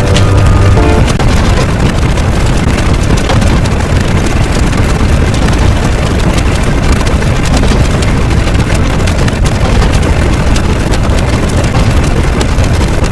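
A loud, steady rumbling noise, heaviest in the low range, with no rhythm or distinct strikes. A few held musical tones fade out about a second in.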